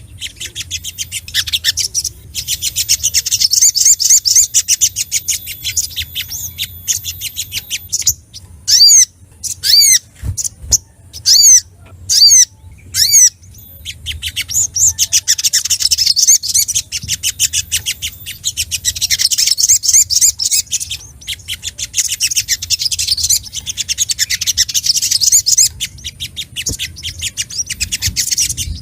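Little spiderhunter (sogok ontong) singing excitedly. Long runs of rapid, high chattering trills are broken in the middle by a stretch of separate sharp chip notes.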